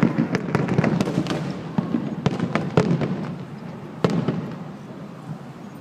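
Aerial fireworks going off in a dense barrage: continuous crackling with several sharp, louder bangs, dying away over the last second or two.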